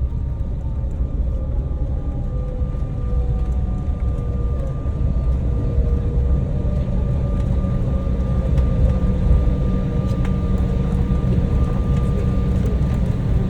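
Cabin noise inside a Boeing 737 on the ground after landing: a steady deep rumble of engines and airframe with a steady high whine, and a fainter whine that slowly falls in pitch during the first half as the engines wind down.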